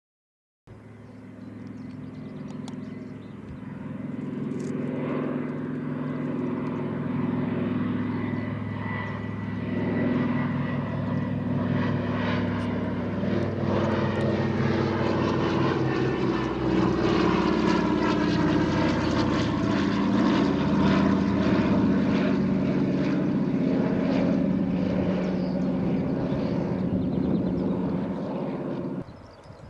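Propeller aircraft engines droning as the planes fly past overhead. The sound starts abruptly, builds louder over the first several seconds and drops slightly in pitch about two-thirds of the way through as they pass, then cuts off suddenly near the end.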